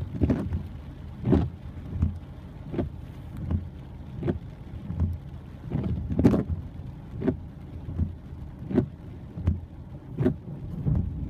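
Heavy rain heard from inside a car, with a regular thump repeating a little faster than once a second.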